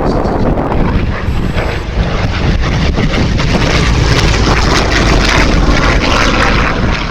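Yakovlev Yak-11's radial piston engine and propeller during a flying display pass, the sound growing louder from about two seconds in and easing slightly near the end.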